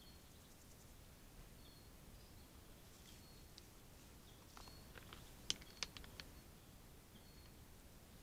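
Near silence on a trail camera's microphone: faint short high bird calls repeat every second or two, and a brief cluster of sharp clicks and snaps comes about five to six seconds in.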